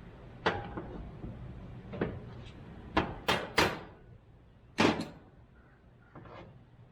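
Tools knocking and clacking on metal parts of a steering-column shift mechanism while its shifter pin is worked out: about six sharp knocks, three in quick succession near the middle and a longer ringing one just before the end.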